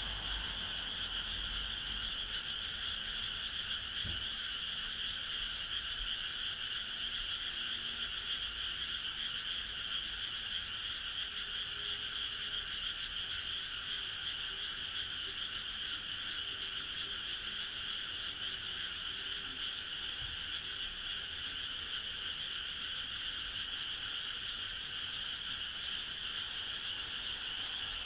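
Chorus of many frogs calling together, dense and steady throughout.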